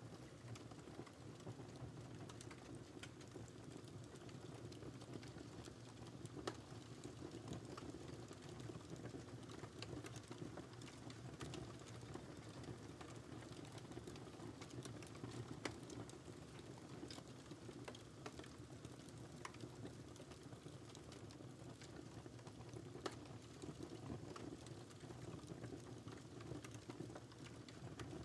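Wood fire burning in a fireplace, with a steady soft crackle of small irregular clicks and a few louder pops.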